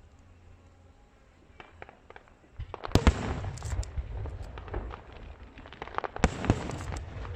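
Aerial fireworks bursting in quick succession with crackling. After a few faint pops, the barrage starts about three seconds in with loud bangs.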